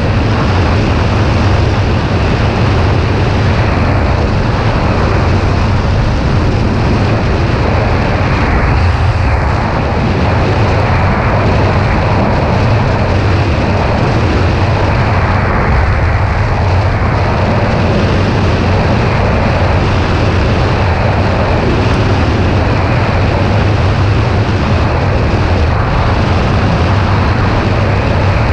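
Steady wind roar on the microphone of a moving motorcycle, with the Kawasaki Ninja 400's parallel-twin engine running evenly underneath at a steady speed.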